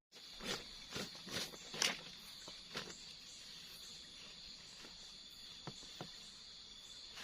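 Steady high chirring of night insects in the forest, with a few short knocks and rustles of handling, mostly in the first three seconds.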